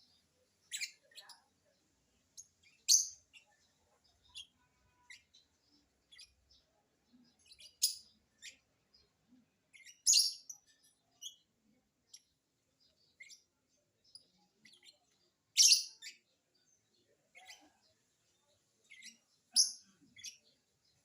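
Lovebird chirping: short, sharp, high-pitched chirps at irregular intervals, a few of them much louder than the rest.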